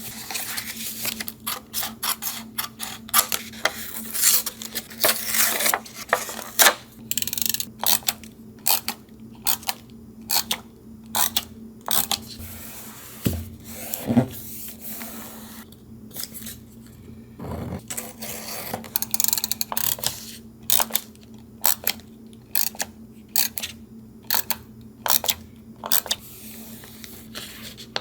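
Paper collage work in a journal: paper and craft supplies being handled, with many short rustles, taps and scrapes in quick succession and a few duller knocks.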